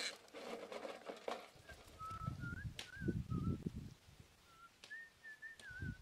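A bird's thin, wavering whistled notes, a string of short ones, over muffled rustling and low thuds.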